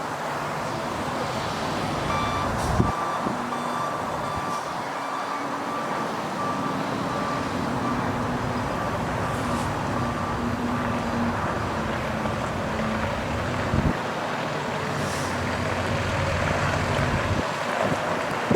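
Truck engine running under a steady rushing noise, with a vehicle backup alarm beeping evenly at one pitch from about two seconds in until past the middle.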